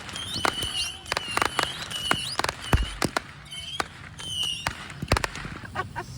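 Small fireworks going off: a quick irregular run of sharp pops and crackles mixed with short, high whistles.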